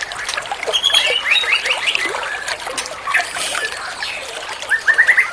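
White-rumped shama singing two quick runs of short rising whistled notes, about a second in and again near the end, over steady trickling water.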